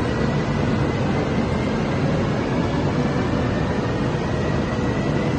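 CRH high-speed electric train rolling slowly out along the platform: a steady rumble and hiss with a faint high whine.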